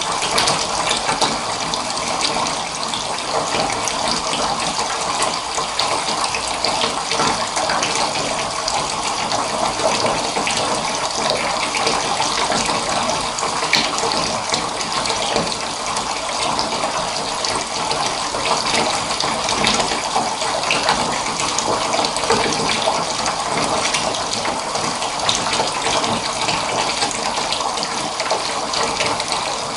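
Water pouring steadily from a tap into a filling bathtub, an even rush and splash that does not change.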